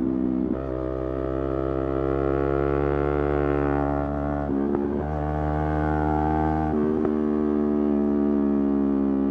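Motorcycle engine running steadily under way, its note broken briefly for gear changes about half a second in, around four and a half seconds in and near seven seconds in.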